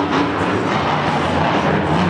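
Loud arena music over the stadium PA, mixed with a monster truck engine revving and the crowd's din.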